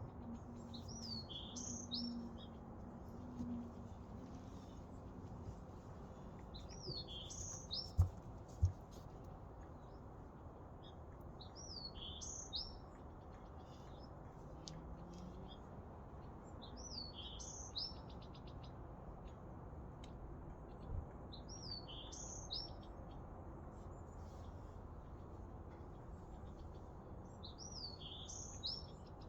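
A songbird repeating the same short, high song phrase six times, about every five seconds, over a steady low background rumble. Two dull thumps come close together about eight seconds in.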